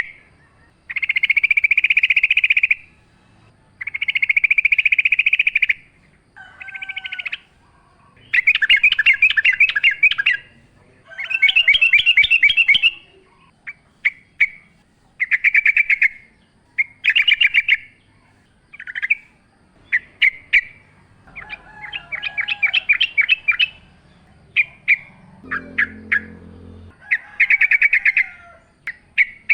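Yellow-vented bulbul (trucukan) singing: a string of short, rapidly trilled phrases, a new one every second or two.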